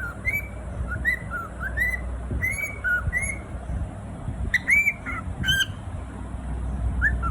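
Cockatiel giving short, arching whistled chirps, about two a second, with a pause a little past the middle before a few louder ones.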